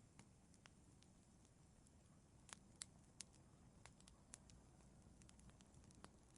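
Wood fire in a fireplace crackling faintly: scattered sharp pops and snaps over a low steady rumble, with three louder pops in quick succession around the middle.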